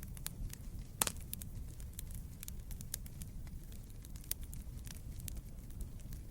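Wood fire burning in a fireplace: a steady low rumble of the flames with frequent sharp crackles and pops from the burning logs, one louder pop about a second in.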